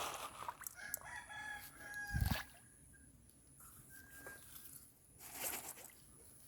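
A rooster crowing once, a single long call from about one to two and a half seconds in, with a dull thump near its end and a brief rustle later.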